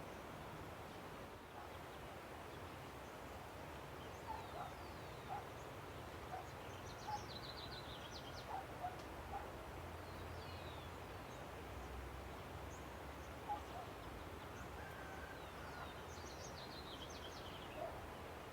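A river runs with a steady rush while birds call over it: short high descending trills and chirps come in clusters, with scattered lower single notes between them.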